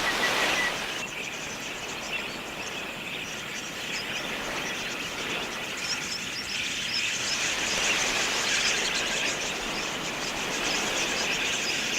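A flock of wild budgerigars chattering: many small high chirps overlapping in a steady twitter.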